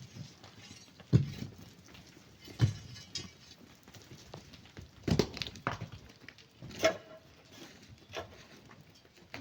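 Scattered knocks and clatters of rock and hard sand: about five separate impacts, spaced irregularly, with quieter scraping between them.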